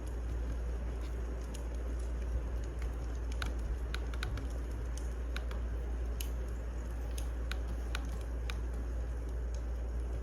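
Wood fire crackling: irregular sharp pops and snaps over a steady low rumble and hiss of burning logs.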